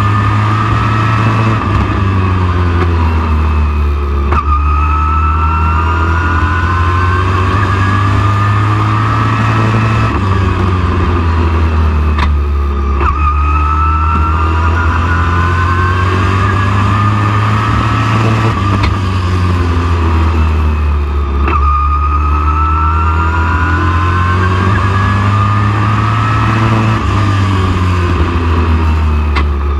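Super truck race engine at full throttle. It rises in pitch along each straightaway, then drops back as the driver lifts for the turns, about every eight to nine seconds, over a steady heavy low drone.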